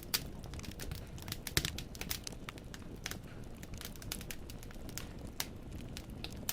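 Firewood logs burning in a fireplace, crackling with many irregular sharp pops and snaps over a low, steady rumble of flame. There is a louder pop about one and a half seconds in.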